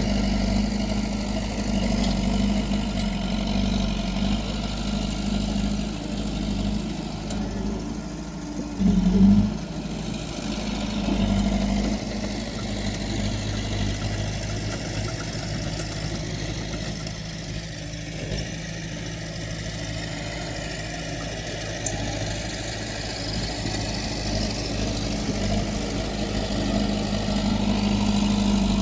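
Diesel engine of heavy earthmoving machinery running steadily, with a brief louder surge about nine seconds in.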